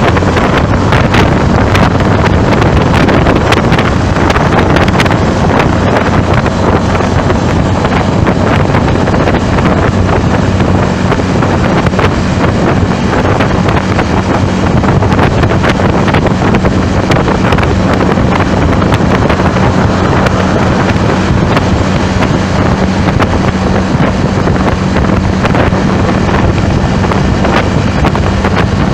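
Heavy wind buffeting the microphone, a loud, rough, constantly fluttering rush, over a steady low hum from a moving vehicle.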